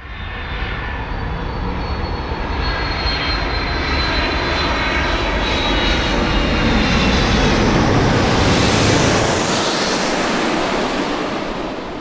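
Jet engines of a heavy FedEx cargo jet on landing approach, passing close by: a rush that swells, is loudest about eight to nine seconds in, then fades, with a faint high whine that slowly drops in pitch.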